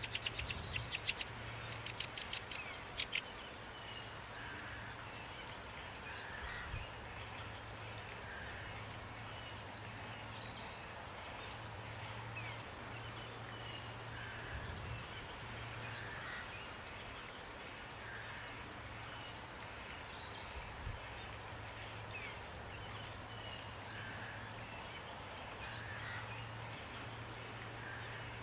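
Steady rain with several birds calling over it: high, quick falling chirps that repeat all the way through, a fast rattling trill in the first few seconds, and softer, lower calls every couple of seconds.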